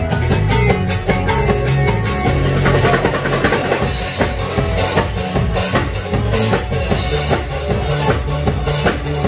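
Live band music driven by a drum kit, with a steady bass line under regular kick and snare hits.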